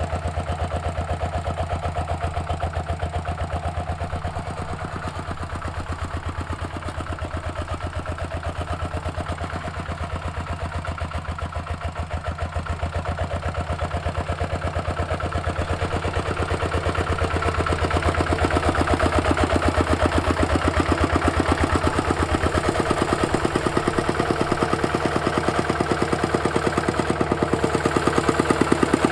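Single-cylinder diesel engine of a Kubota walking tractor running steadily with a fast, even firing beat and some clatter while ploughing. It grows louder about two-thirds of the way in and again near the end.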